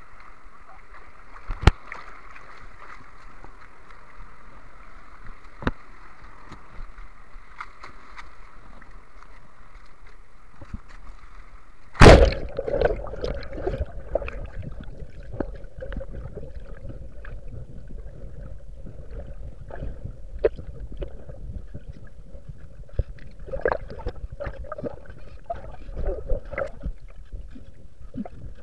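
Bamboo raft drifting on a river: water gurgling and sloshing against the bamboo, with scattered knocks. One loud knock about twelve seconds in, after which the water sound is lower and the small knocks come more often.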